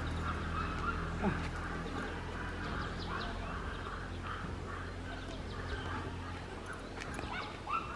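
Outdoor ambience: a bird calling in short repeated notes, two or three a second, over a steady low hum.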